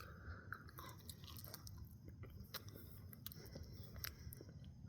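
Faint mouth sounds of a person chewing food, soft wet clicks and smacks scattered through.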